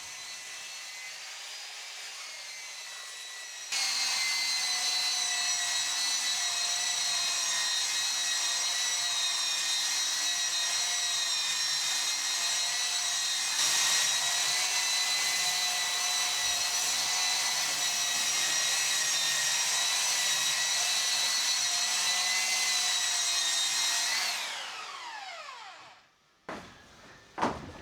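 Electric power sander running with a steady whine while sanding a hardwood verandah post smooth. It gets louder about four seconds in, and near the end the motor winds down with a falling pitch and stops.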